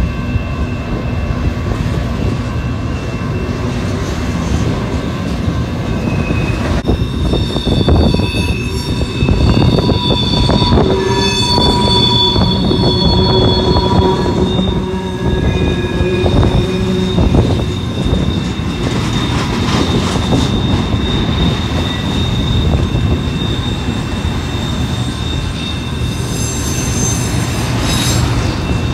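Freight train rolling past, the cars giving a steady low rumble, with high-pitched wheel flange squeal that starts about a quarter of the way in and carries on.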